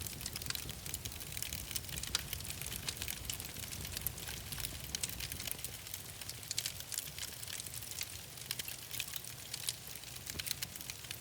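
Fireplace fire crackling, with frequent sharp irregular pops over a low steady rumble.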